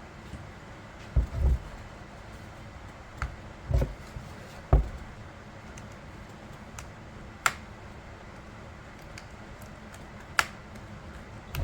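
Handling noise from hands working on a chainsaw: a few dull knocks, then two or three sharp clicks, spaced a few seconds apart.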